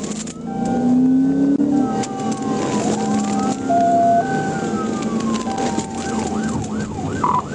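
Police car siren during a pursuit, sounding a slow rising and falling wail that switches to a fast yelp near the end.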